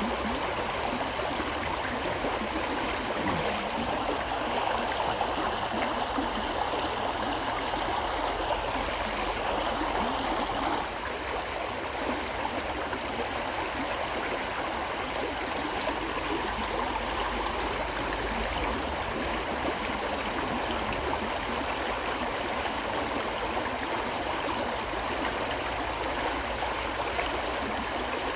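A river flowing steadily, a continuous sound of moving water, a little quieter from about eleven seconds in.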